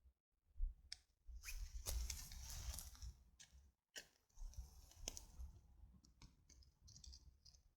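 Burning logs of a nodya campfire crackling, with faint irregular snaps and pops.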